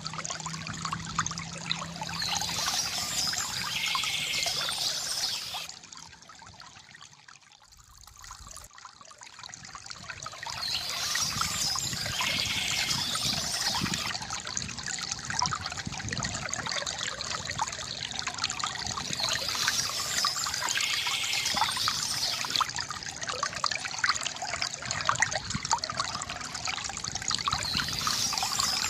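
Water from a bamboo fountain trickling and splashing steadily, fading away almost to nothing for a few seconds about six seconds in before building back up. Over the water, birds chirp in a pattern that comes back about every eight seconds.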